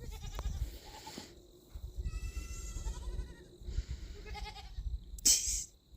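Goats bleating faintly in the background, over a low rumble. A short, loud, hissy burst comes about five seconds in.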